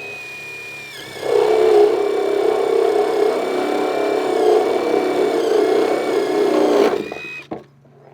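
A power drill's electric motor whirring steadily, getting much louder about a second in and stopping abruptly near the end.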